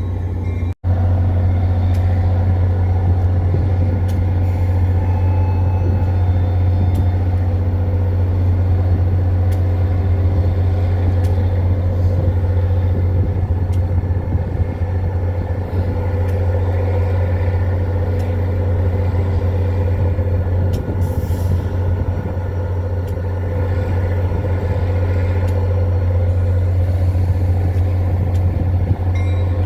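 Diesel locomotive engine running steadily, a constant loud low drone with a few steady higher tones over it.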